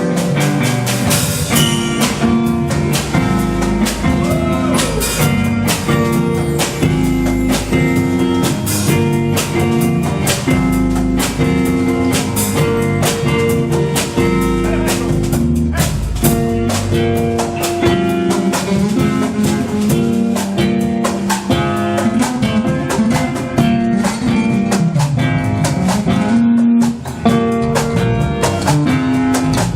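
Instrumental band music: plucked guitar over bass and a drum kit keeping a busy, steady beat, with a brief drop near the end.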